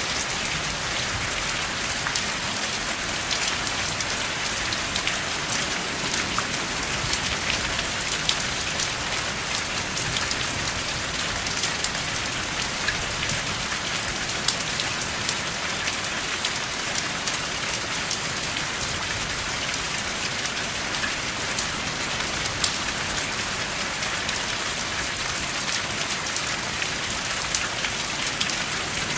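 Steady rain falling, an even hiss dotted with the sharp taps of individual drops, with no thunder.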